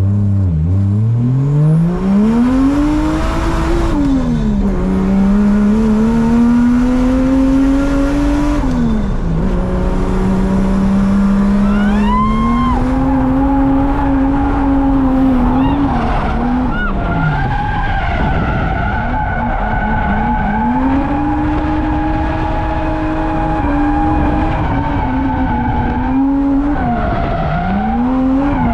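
Drift car's engine revving hard, its pitch climbing and dropping again and again through gear changes and throttle lifts, with tyres squealing at times while the car slides.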